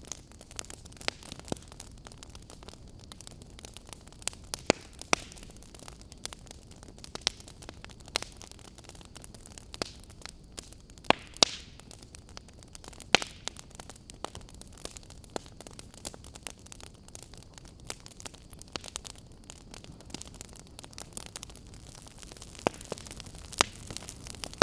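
Campfire burning: a steady soft hiss with irregular sharp crackles and pops of the wood, a few louder pops standing out.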